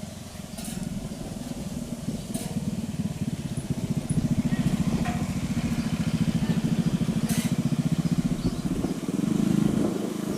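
Turboprop aircraft engines and propellers droning with a fast pulsing beat, swelling to their loudest about nine seconds in and then easing off.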